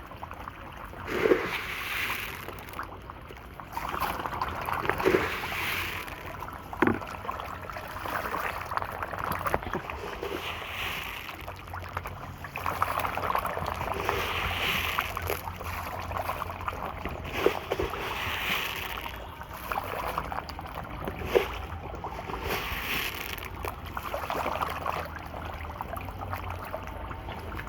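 Catfish thrashing at the water surface of a tank in a feeding frenzy, a churning wash of splashing that swells and fades, with sharp louder splashes every few seconds.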